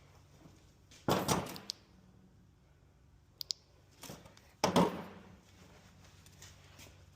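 Two loud knocks with a short rattling tail, about three and a half seconds apart, with a pair of faint clicks between them, over a low steady hum.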